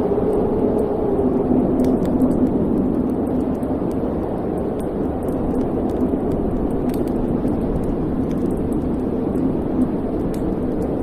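Wood fire burning in a fireplace: a steady low rushing roar with many small, sharp crackles and pops scattered through it.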